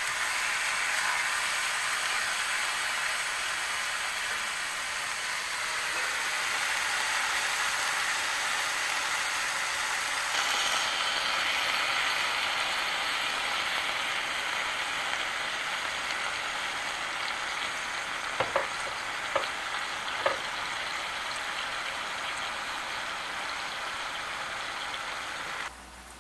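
Chicken breast pieces searing in hot oil in a skillet, a steady, dense sizzle, with a few light clicks a little past the middle; the sizzle cuts off abruptly near the end.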